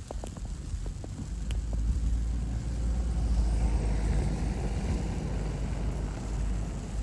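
A car drives past, its low rumble swelling to a peak about three to four seconds in and then fading. A few crunching footsteps in snow are heard in the first second or two.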